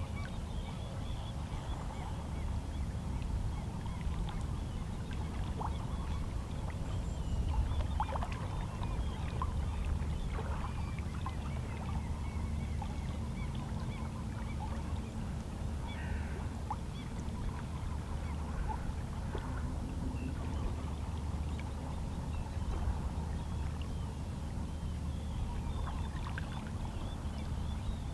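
Small, calm sea waves lapping and sloshing steadily against shoreline rocks, with faint seabird calls scattered throughout.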